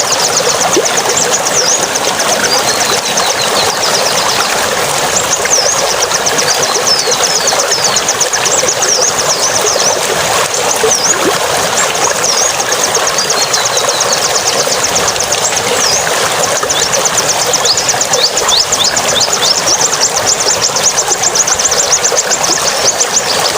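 A songbird chattering in long runs of very fast, high repeated notes mixed with short falling whistles, over a steady rushing hiss.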